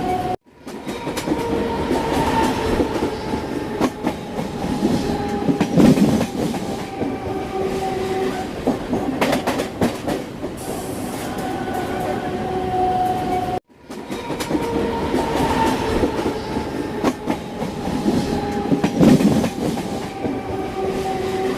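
Train running on the rails: wheels clattering over rail joints with a rumble and some steady whine-like tones. The sound cuts out briefly twice, near the start and about two-thirds through, and the same stretch of train sound repeats after each cut.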